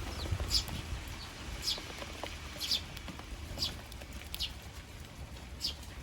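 Eurasian tree sparrows chirping: short, high single chirps repeated about once a second, over a faint low rumble.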